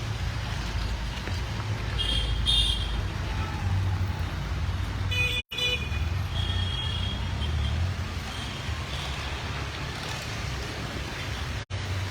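Street traffic: a steady rumble of vehicle engines with short horn toots, several times. The sound cuts out for an instant twice.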